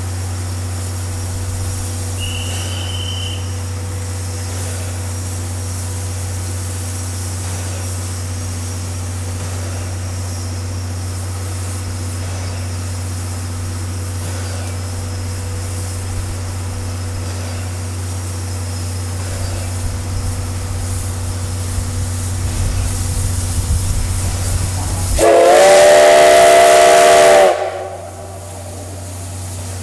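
Steam locomotive running with a steady low hum and a growing rumble, then one blast of its chime-like steam whistle, about two seconds long, which stops abruptly near the end.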